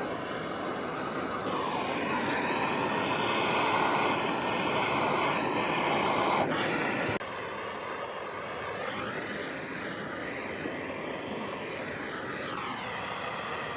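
A power tool running steadily with a whine that wavers up and down in pitch as it works, with an abrupt change in level about seven seconds in.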